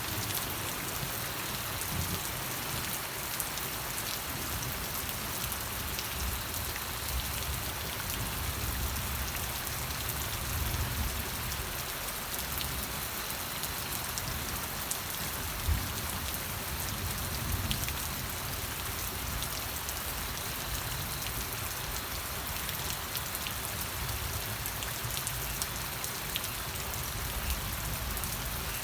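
Steady rain falling, a continuous hiss with scattered individual drops striking a surface.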